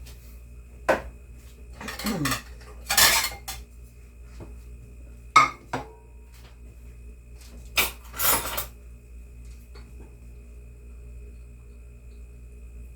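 Metal kitchen utensils and cookware clinking and scraping in about half a dozen separate clatters, the longest a scrape lasting under a second.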